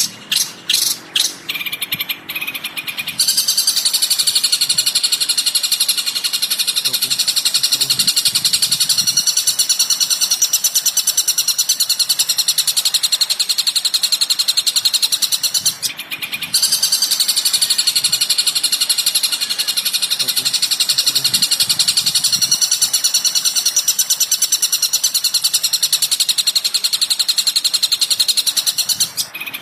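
Recorded songbird chatter from a bird-song training track for shrikes: a few sharp separate chirps at first, then a long, dense, fast run of high chattering notes that stops briefly about halfway through and starts again.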